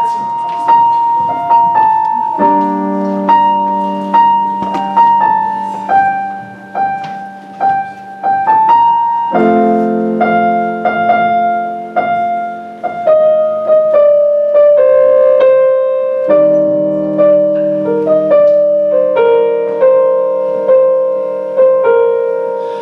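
Solo piano playing a slow introduction: sustained chords, with a fresh low chord struck every six or seven seconds and single notes ringing out above them.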